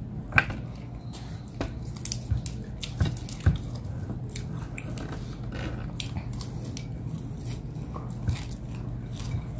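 Close-up eating sounds: a person chewing and biting roast chicken and rice eaten by hand, with many short sharp mouth clicks, the loudest about half a second in and around three and a half seconds in. A steady low hum runs underneath.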